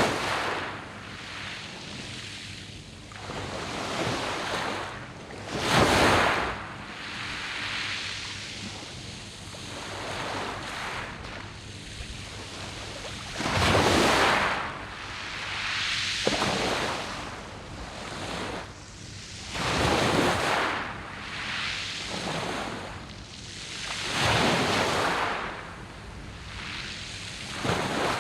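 Sea waves breaking on a round-pebble (mongdol) beach. Each wave is a rushing surge that swells and fades every few seconds, with a softer wash of surf between them.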